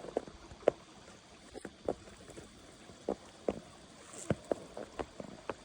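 Footsteps in snow: a string of irregular soft crunches and thumps as someone steps carefully along a snow-packed log.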